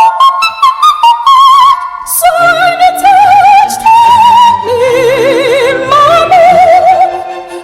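A woman singing in an operatic style: quick short notes for about two seconds, then long held notes with a wide vibrato over a soft low accompaniment.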